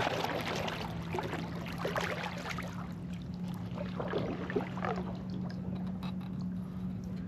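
Kayak paddle strokes in calm water: the blade dipping and water dripping and trickling off it, a stroke every second or so. A steady low hum runs underneath.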